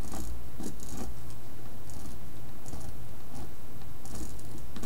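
Pen scratching on paper in short, irregular strokes while tracing over a drawing, over a steady low hum.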